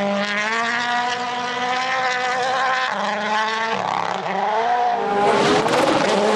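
Rally car engine running at high revs, its pitch held nearly steady, with a brief lift and pick-up about four seconds in. A rushing noise rises over the engine near the end.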